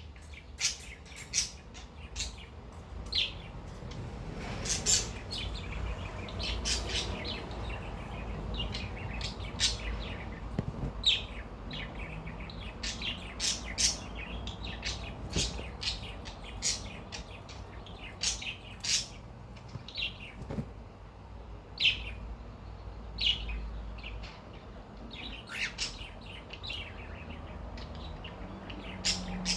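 Cockatiel chirping in short, sharp high calls, about one every second or so, over a steady low hum from an electric fan.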